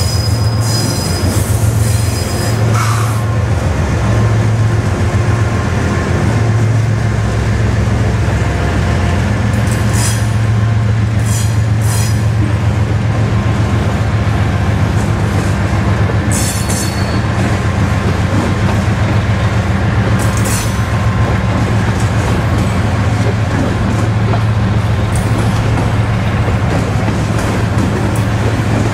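A freight train passes close by. The trailing diesel locomotive goes by at first, then a long string of refrigerated boxcars rolls past with a steady rumble. The wheels squeal briefly several times along the way.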